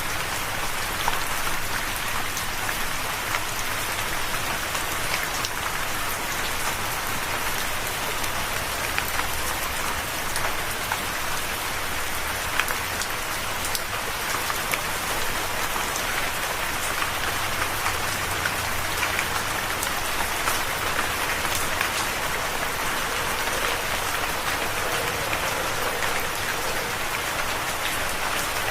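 Steady rain falling on a surface, an even hiss with many scattered individual drop taps.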